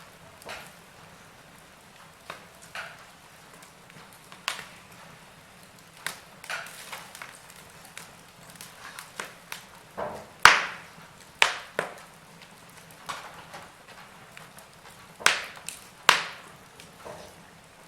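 Wood fire in a fireplace crackling: irregular sharp pops and snaps over a faint steady hiss, the loudest pop about ten seconds in.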